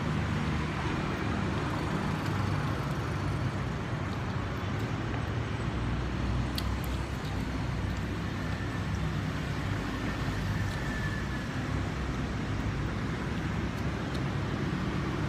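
Steady low background rumble with no speech, and a faint click about six and a half seconds in.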